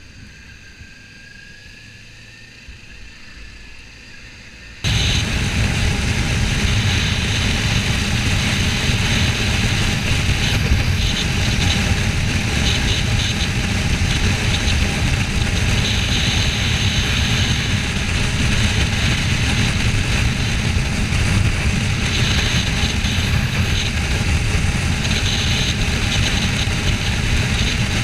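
Motorcycle riding at road speed: the Kawasaki Ninja 400's parallel-twin engine running under a steady rush of wind noise on the microphone. The sound cuts in suddenly about five seconds in, after a much quieter stretch.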